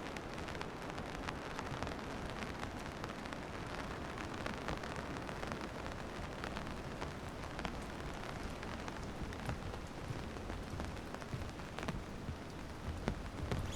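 Steady rain falling, with many separate drop hits sounding through it.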